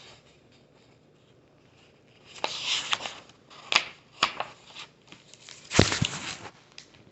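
Paper rustling and crinkling with a few sharp clicks as the pages of a picture book are handled and turned, starting about two and a half seconds in. The loudest rustle, with a soft thump, comes near the end.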